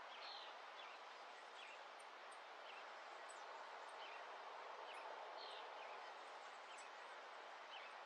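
Faint outdoor dawn ambience: a steady soft hiss with scattered short, high bird chirps every second or so.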